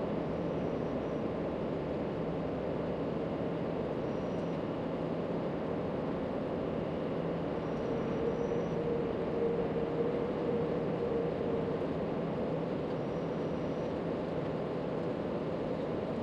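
Steady rushing background noise with no distinct events, a faint hum under it and a faint tone rising out of it near the middle.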